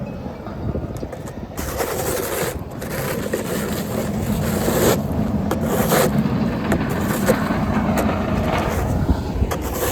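Snow being scraped in repeated strokes that start about a second and a half in, with short pauses between them, over a steady low hum.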